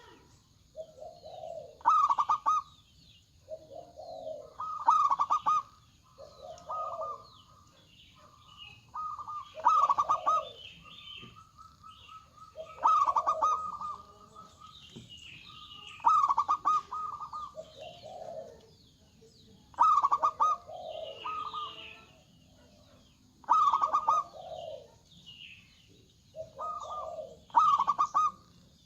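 Zebra doves (perkutut) cooing, a rhythmic multi-note phrase repeated about every three to four seconds. Faint high chirps of small birds run between the phrases.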